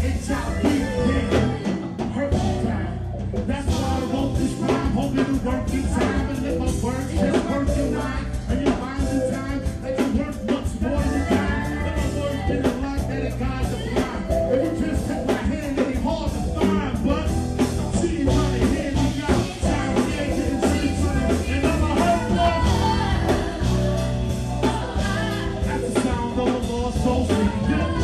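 Live band music with a steady drum beat and bass, and a singing voice over it.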